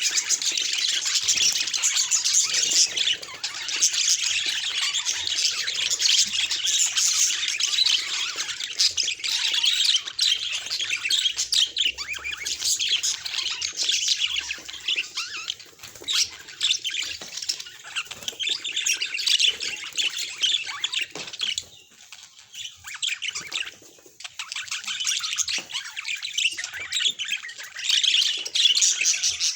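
Budgerigars chattering and warbling in a dense, unbroken stream of quick chirps and squawks, with two short lulls past the two-thirds mark.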